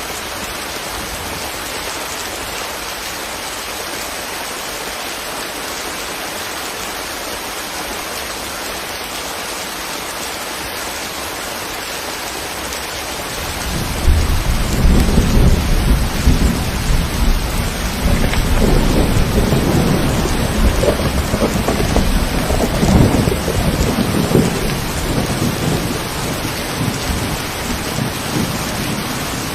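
Steady rain falling. About halfway through, a deep rumble of thunder comes in suddenly, rolls on for over ten seconds, and eases off near the end.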